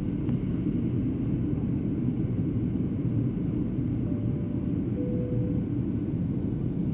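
Steady low rumble of an airliner's cabin in flight, from the engines and the airflow past the fuselage. About four seconds in, two short soft tones sound one after the other, the second lower.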